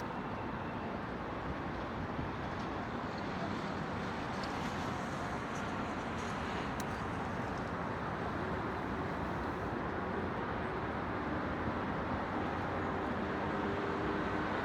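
Steady wash of distant city road traffic, growing slightly louder toward the end, with a faint steady hum coming in over the last few seconds.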